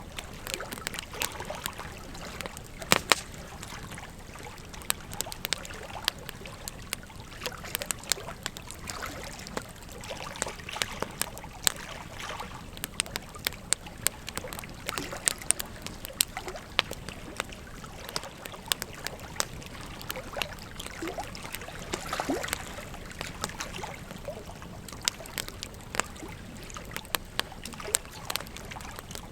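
Wood fire crackling, with frequent sharp pops and a louder double pop about three seconds in, over the steady rushing and trickling of a river.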